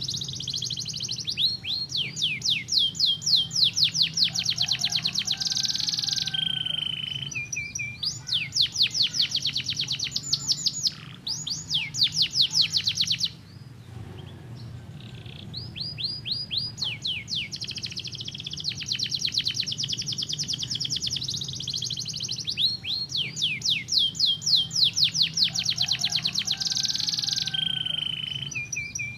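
Domestic canary singing: fast rolling trills of rapidly repeated notes, with a brief pause about halfway through before the song resumes.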